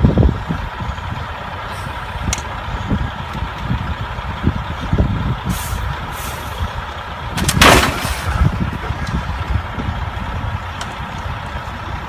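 Semi truck's diesel engine running steadily, with a loud burst of air-brake hiss about seven and a half seconds in.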